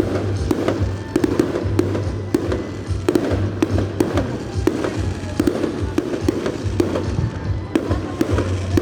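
Fireworks going off in rapid succession, several sharp bangs and crackles a second, with music playing along.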